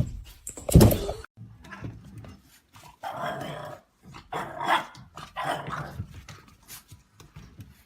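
A dog vocalizing in several short, separate bouts, after a loud, sudden noise in the first second or so.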